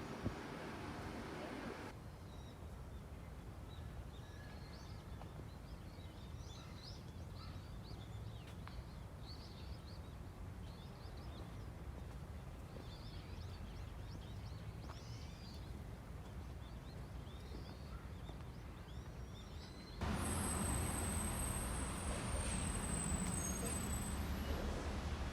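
Small birds chirping now and then over a low outdoor rumble. About twenty seconds in, this cuts to a louder, steady noise with thin high-pitched tones.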